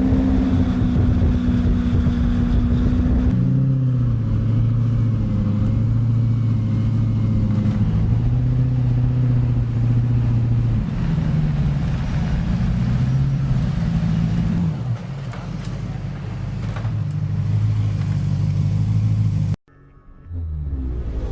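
Maserati car engine in a custom sports motorcycle running loudly, holding a higher note for about three seconds, then dropping to a lower note that rises and falls with the throttle. The sound cuts off abruptly near the end.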